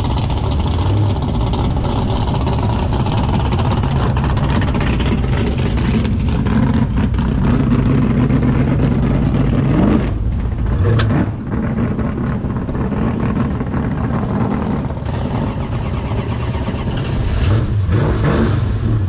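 A car engine running and revving, its pitch shifting up and down, with a brief dip about ten seconds in and a sharp click soon after.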